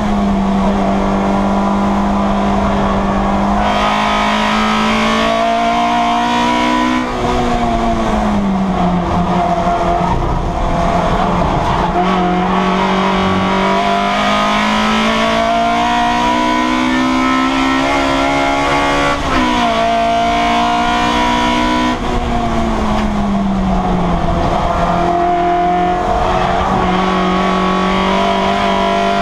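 Citroen Saxo race car's engine running hard, heard from inside the stripped cabin. Its pitch climbs slowly and falls back several times, most clearly about a quarter of the way in and in the last third.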